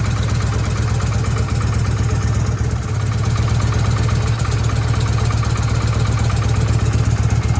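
A 1981 Harley-Davidson Shovelhead's air-cooled V-twin idles steadily with a rapid, even pulse. It is the engine's first run after sitting 40 years, still burning off the oil its cylinders were soaked in.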